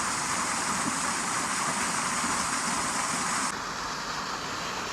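Steady rush of falling water from a 15-foot waterfall, turning a little quieter and duller about three and a half seconds in.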